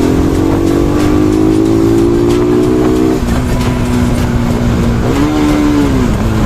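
Bajaj Pulsar NS200's single-cylinder engine and exhaust pulling while riding, the pitch climbing slowly for about three seconds as it accelerates, then dropping suddenly as the throttle is closed. Near the end a short rise and fall in pitch from a brief blip of throttle.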